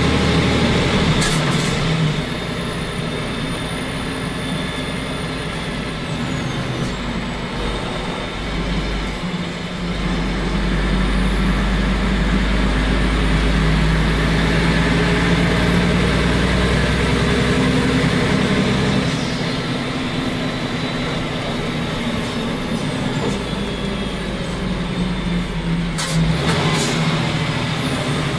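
Heavy truck's diesel engine running under way, heard from inside the cab through the open roof hatch; the engine note steps up and down several times as the truck drives. Brief air hisses sound about a second in and again near the end.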